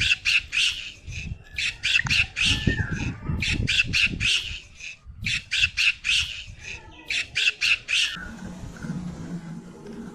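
A bird giving runs of short, harsh squawks in quick succession, stopping about eight seconds in, after which only a low background hum remains.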